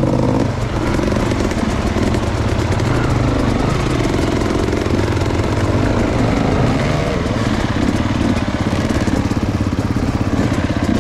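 Enduro motorcycle engine running, its pitch rising and falling with the throttle.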